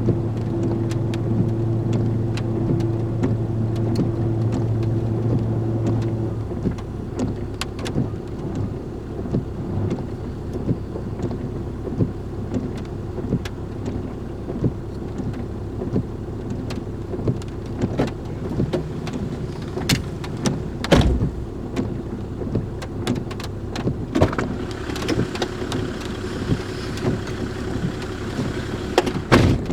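A vehicle engine runs with a steady hum and stops about six seconds in. Then rain patters with scattered drips and a few louder knocks.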